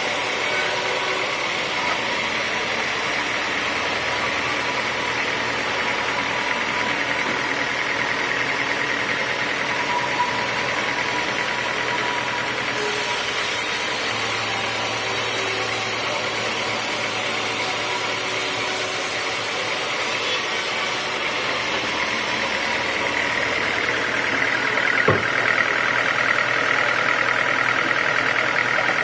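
Homemade sawmill running as it saws a teak log: steady machine noise. A higher whine comes in about 24 seconds in, with one sharp click.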